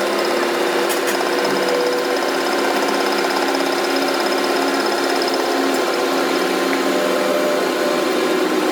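A workshop machine running steadily with a constant hum that holds one speed throughout.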